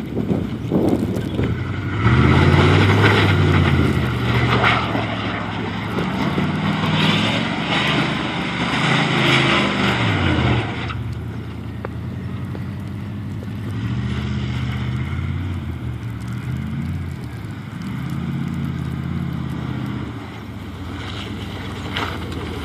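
Truck engine revving, its pitch rising and falling, loud for several seconds from about two seconds in, then running quieter with smaller rises and falls in revs for the rest of the stretch.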